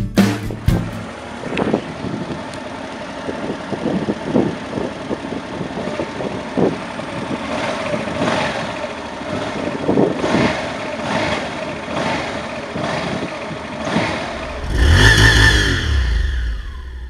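Honda Deauville NT700V motorcycle's V-twin engine running, its throttle blipped repeatedly so the exhaust rises and falls in short revs. Near the end comes a louder surge whose pitch falls away.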